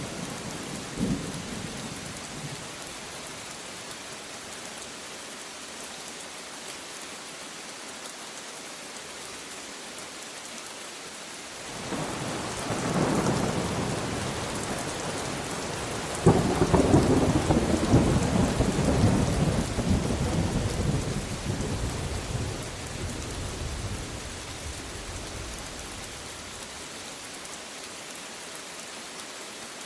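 Steady rain falling, with two rolls of thunder: one rumbling in about twelve seconds in, then a louder, longer one a few seconds later that slowly dies away.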